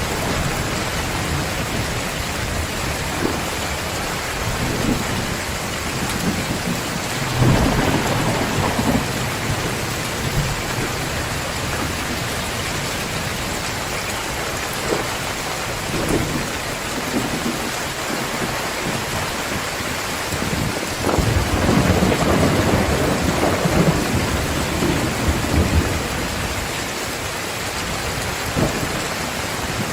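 Heavy rain pouring down steadily, with rolling rumbles of thunder that swell twice, about a quarter of the way in and again about two-thirds through.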